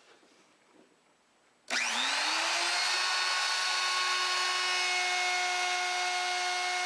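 Handheld wood router switched on: its motor spins up in about a second, then runs at a steady high whine without cutting.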